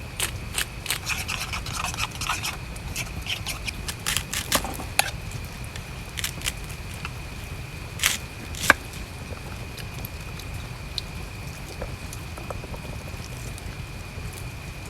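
Small clicks, taps and light scrapes of containers and utensils being handled and set down on a camp table. They come thick in the first five seconds, then two sharper clicks about eight seconds in, then only a few faint ones. Steady rain and a constant thin high tone run underneath.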